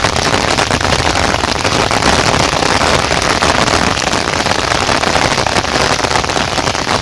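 Heavy rain falling, a loud, steady, dense patter of drops with no let-up.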